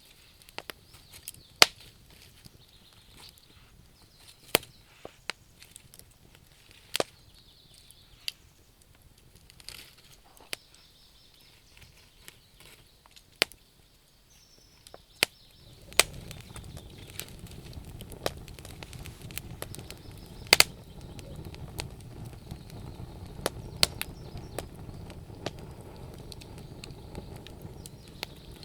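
Wood fire crackling, with sharp pops at irregular intervals, several a few seconds apart. About halfway through, a steady low rumble comes in under the pops and stays.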